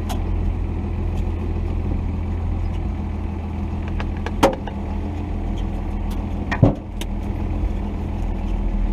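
Cummins 5.9-litre inline-six turbodiesel of a 1990 Dodge D250 running at low engine speed with a steady low drone as the truck crawls down a rocky trail. Two sharp knocks cut through it, about four and a half and six and a half seconds in.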